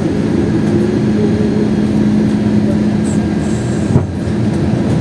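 Airbus A321 cabin noise heard from inside the aircraft: a loud, steady low rumble of engines and airflow with a constant hum. A single thump comes about four seconds in.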